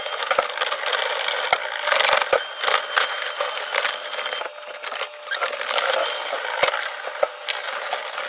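Dry crackling and scraping with many sharp clicks and knocks, from dusty lint and debris being worked loose during dryer vent cleaning.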